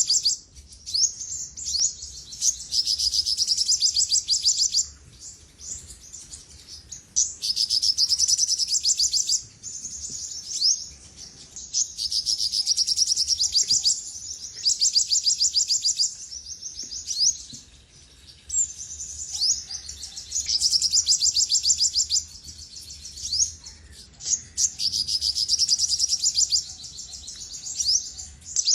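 Olive-backed sunbird singing: rapid, high trills given again and again, each phrase lasting one to two and a half seconds, with short pauses between.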